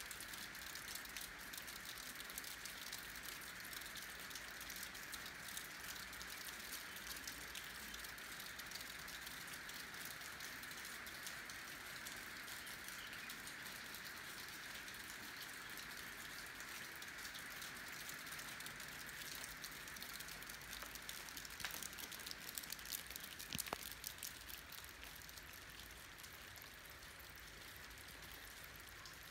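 Steady rain falling, a continuous hiss made of many small drop hits, with a few louder single drops striking about three quarters of the way through.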